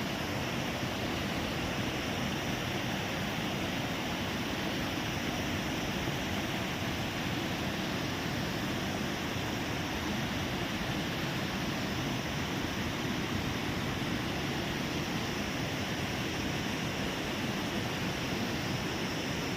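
Waterfall, its water rushing steadily and evenly without a break.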